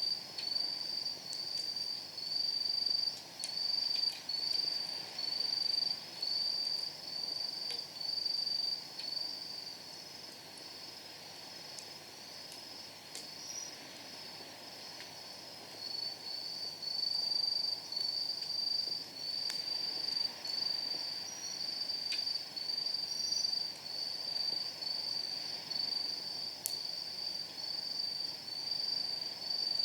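A night insect chirps in a steady rhythm, a high pulsed trill repeating about one and a half times a second, softer for a few seconds near the middle. Over a faint hiss, a wood fire in a steel fire pit gives a few sharp crackling pops.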